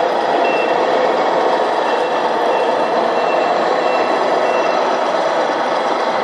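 Sound module of a 1:14 scale RC model truck playing a steady diesel engine sound, with its reversing beeper giving a short high beep about every 0.6 seconds from about half a second in until near the end.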